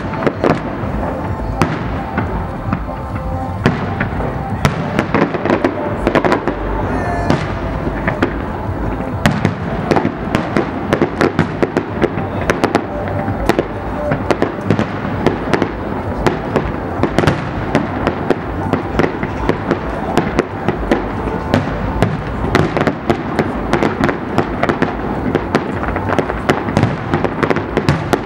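Aerial firework shells bursting in a rapid, unbroken barrage of bangs and crackles.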